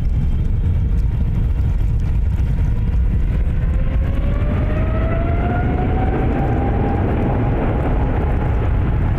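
Boeing 777's GE90 jet engines running with a deep, steady rumble. From about three seconds in, the engine whine climbs in pitch for several seconds and then levels off, as the engines spool up.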